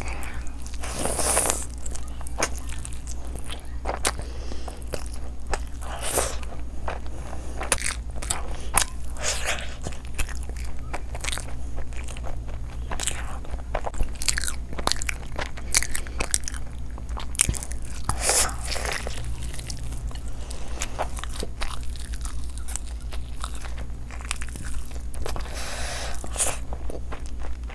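Close-up chewing and biting of curry-soaked rumali roti and chicken leg pieces: irregular wet mouth clicks and smacks throughout, over a steady low hum.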